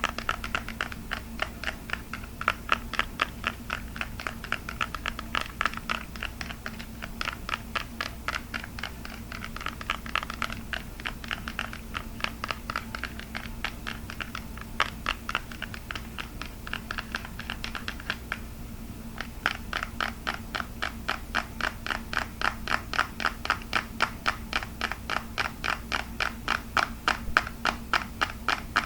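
Fast, even tapping on a hard object, about four to five taps a second, with a brief pause about two-thirds of the way through.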